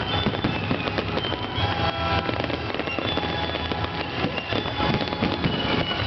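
Fireworks in a dense, continuous barrage of bursts and crackling, with no break, typical of a display's finale.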